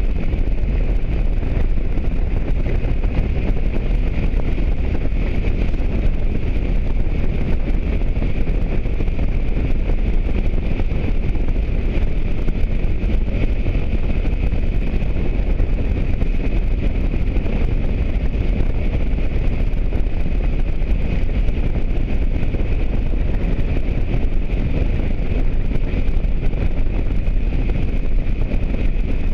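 Motorcycle riding at a steady speed: wind rushing over the microphone, with the engine and road noise underneath.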